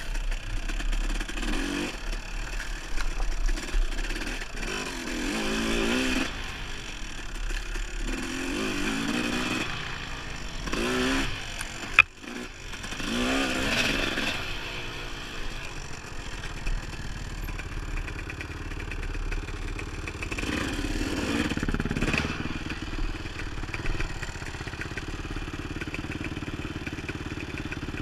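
Dirt bike engine revving up and down again and again as it is ridden over single track, with one sharp knock about halfway through. In the later part the engine runs more steadily.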